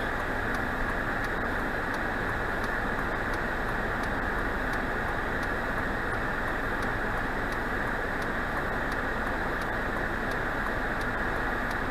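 Steady road and engine noise heard inside a moving car's cabin, an even rumble and hiss with no change in level, with faint ticks at a regular pace.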